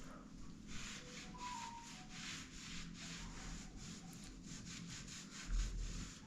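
Repeated scraping strokes, about two to three a second, with a low thump about five and a half seconds in.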